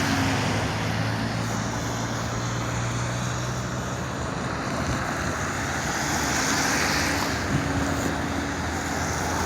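Steady vehicle rumble with a low engine hum that fades about four seconds in.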